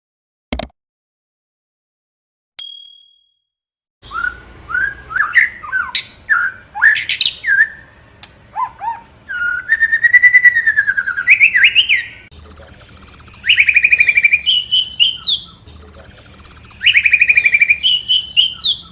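White-rumped shama (murai batu) singing a loud, varied song of sliding whistles that rise and fall, mixed with fast rattling trills and rapid repeated notes, beginning about four seconds in after a single click and one short whistled note.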